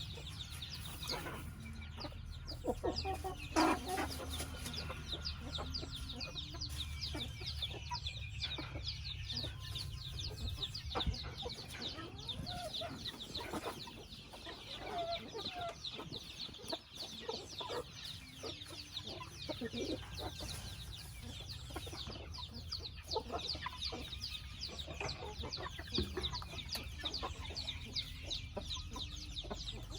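Chickens clucking, with many short high calls crowding over one another.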